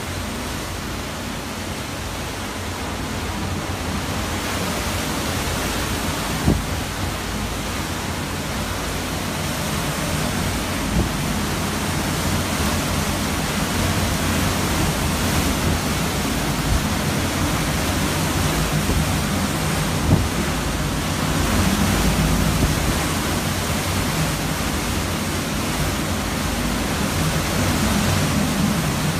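Hurricane Irma's wind and driven rain, a loud steady rush that swells a little, with a few sharp knocks.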